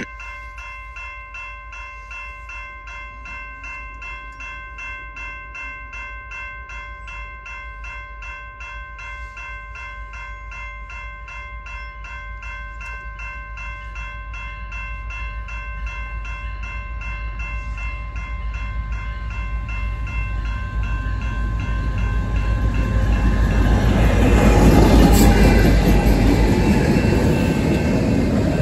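Railroad crossing bell ringing with rapid, even strikes as a Canadian National freight train approaches. The rumble of its diesel locomotives grows steadily louder over the second half and is loudest as the lead units pass the crossing near the end.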